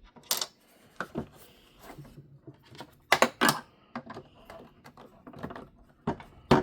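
Irregular clicks and taps of hard plastic toy parts and small screws being handled during reassembly. There is a cluster of louder clicks about three seconds in and a sharp knock near the end.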